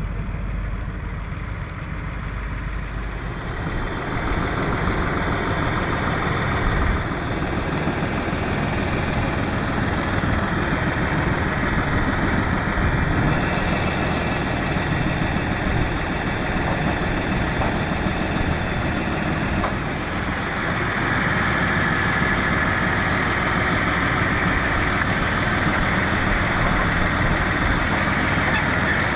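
Tractor engine running steadily, getting louder about four seconds in.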